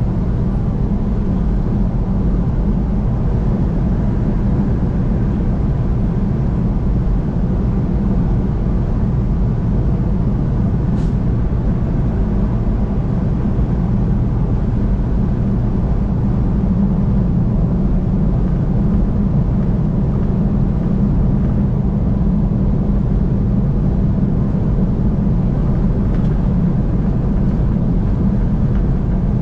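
Steady low rumble of a car driving at highway speed, road and tyre noise with engine drone that stays even throughout.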